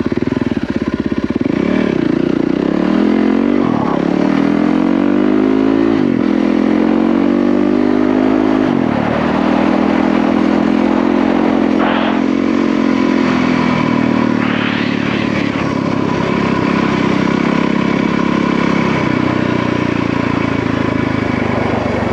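Yamaha WR450F single-cylinder four-stroke dirt bike engine running under way, its revs rising and falling several times in the first nine seconds, then holding steady.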